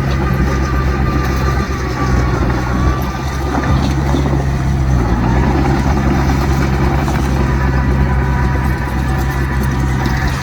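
Heavy earthmoving machinery with diesel engines running steadily under load, with a faint whine that drifts slowly in pitch.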